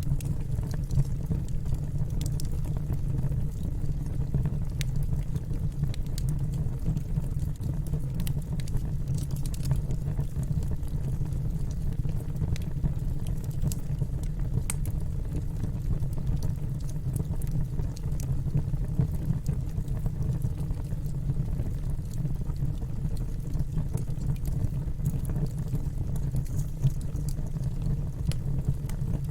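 Wood fire burning in a fireplace: a steady low rush of flames with many small, scattered crackles and pops.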